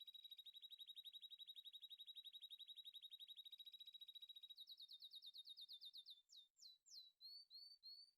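A songbird singing: a long rapid trill of high notes, then for the last few seconds faster slurred notes and a handful of separate chirps. The song stops abruptly at the end.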